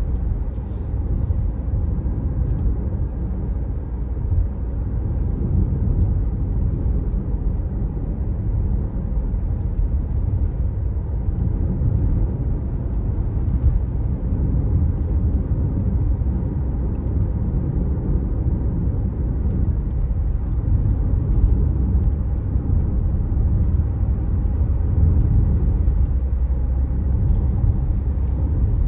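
A car driving steadily along a road: a continuous low rumble of tyres and engine, with a few faint clicks near the start and the end.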